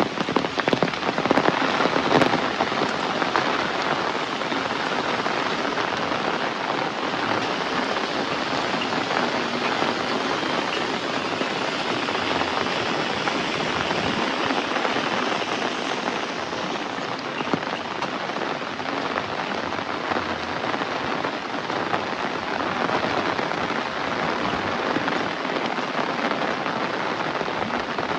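Heavy rain falling steadily in a dense, even hiss, with a few sharper, louder drop strikes in the first couple of seconds.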